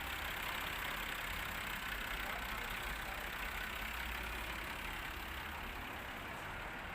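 An engine idling steadily with a low, even running sound.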